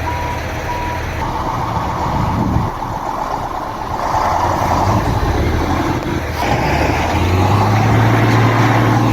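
Heavy truck engine running, with a reversing beeper sounding in short beeps during the first second. About seven seconds in, the engine note rises and runs louder.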